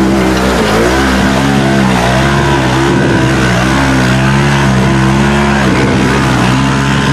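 Off-road vehicle engine running hard, its pitch rising and falling with the throttle.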